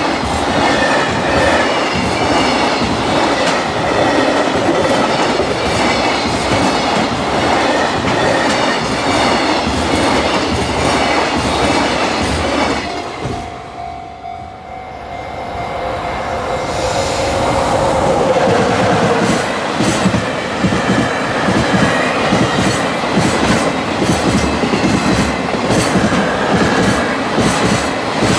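Container freight trains passing at speed: the wagons of one long freight train clatter over the rail joints with a fast, steady rhythm, and the sound fades away about 13 seconds in. After a short lull around 14 seconds, the next freight train comes in and its container wagons clatter past over the joints at full volume.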